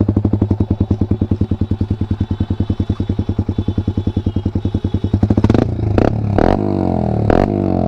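KTM Duke 390 single-cylinder engine through an Akrapovic exhaust with the dB killer removed, idling with an even pulsing beat. About five and a half seconds in, the revs rise and fall under the throttle, with a few sharp cracks.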